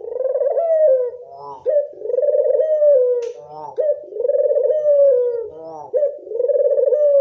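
Ringneck dove (burung puter) cooing in a steady series: about four phrases, each a short clipped note followed by a long drawn-out coo that sags slightly in pitch.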